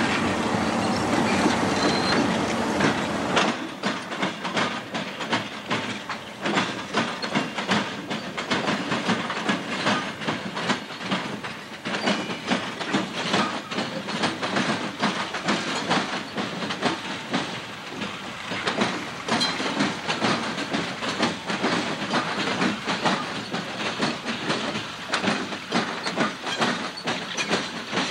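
CSX diesel locomotives passing close by. A heavy engine rumble fills the first few seconds, then a dense run of wheel clicks and clacks over the rail joints and junction trackwork.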